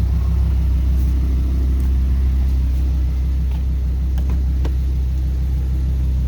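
The 2010 Audi R8's 5.2-litre V10 idling steadily with a low, even hum, with a few light clicks scattered through it.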